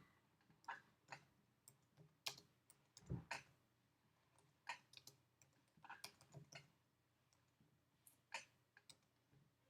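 Faint, irregular clicks of a computer in use, about a dozen scattered clicks and taps with quiet room tone between them.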